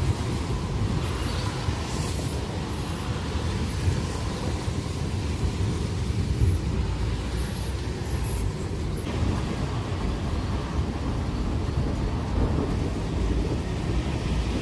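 Heavy gusty wind buffeting the microphone: a dense, churning low rumble with no distinct claps.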